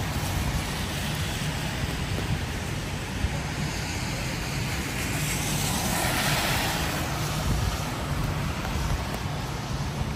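Steady rain falling on an umbrella and wet pavement, over a low rumble of city traffic. A car passes on the wet road about six seconds in, its tyres hissing, swelling and fading.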